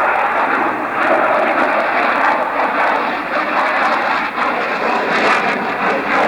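Fixed-wing aircraft engine noise, a loud, steady rush without a distinct pitch, from a plane in an air show flying display.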